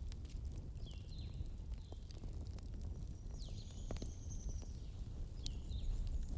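A wood bonfire crackling, with scattered sharp pops over a steady low rumble. Small birds chirp in short falling notes, and one longer high whistle comes about halfway through.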